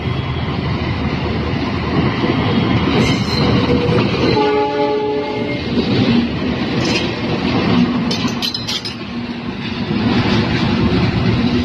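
Train running past with steady heavy noise, its horn sounding one blast of about a second some four and a half seconds in.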